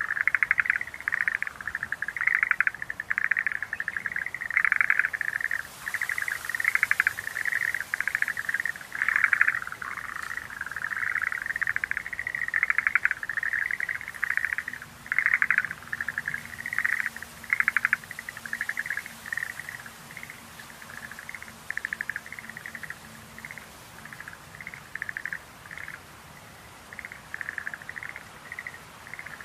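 Schlegel's green tree frogs calling: overlapping runs of short, rattling, pulsed notes. The calling is dense at first and thins out over the second half.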